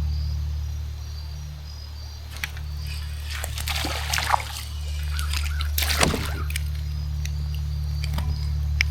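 Water splashing and sloshing beside a kayak in several irregular bursts, the loudest about six seconds in, as a small smallmouth bass is brought to the boat. A steady low rumble runs underneath.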